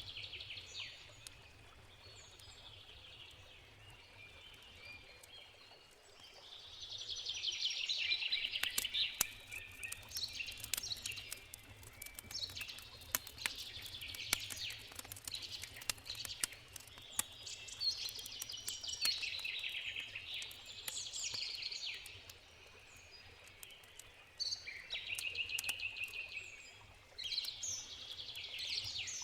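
Forest birds singing in repeated trilling phrases, over the crackle and sharp pops of a wood campfire. A faint steady river rush runs underneath.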